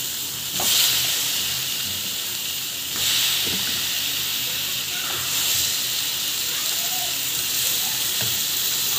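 Raw banana slices sizzling in a pan of hot oil and masala, the hiss surging as more slices drop in about half a second in and again about three seconds in.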